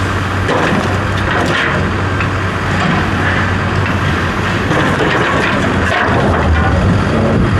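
A heavy vehicle's engine running steadily with a low hum, with some clatter over it.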